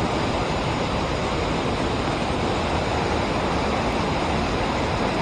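Steady rush of river water spilling below a dam.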